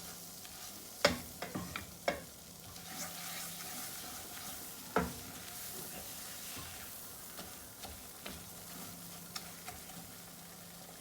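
Flour and butter roux cooking gently in a frying pan on a low flame, with a spoon scraping and knocking against the pan as it is stirred. Several sharper knocks come in the first two seconds and one more about five seconds in, over a faint steady sizzle.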